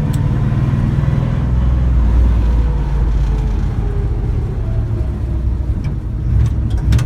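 Car engine running while driving, a steady low rumble whose pitch drops about a second or two in as the revs fall. A few sharp clicks near the end.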